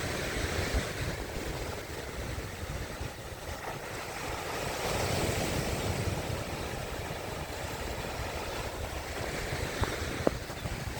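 Lake Ontario's waves washing against the rocky shore, swelling about halfway through, with wind buffeting the microphone. A couple of short knocks near the end.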